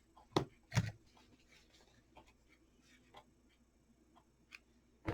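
Hands working thin ribbon around a clock: two soft knocks early, then faint scattered clicks and rustles of handling, and another knock near the end.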